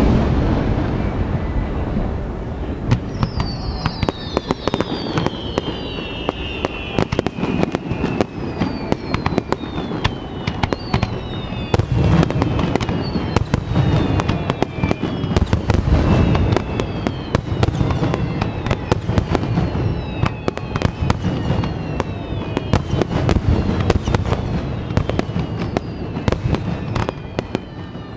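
Aerial fireworks display: deep booms of bursting shells under dense crackling, with many high falling whistles from about three seconds in.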